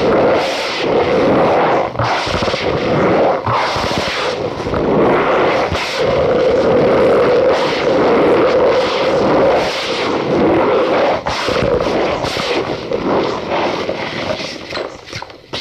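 Cornstarch powder being squeezed and crushed, a dense, continuous squeaky crunching with many small crackles, which fades out near the end.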